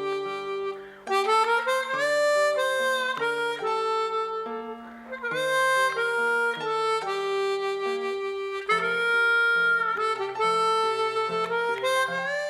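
Live band playing an instrumental passage: a sustained, reedy lead melody over changing chords, with a couple of short pauses between phrases.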